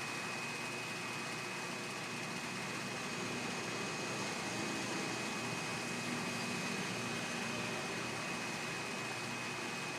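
Summer storm heard as a steady, even hiss, with a faint thin high-pitched whine over it.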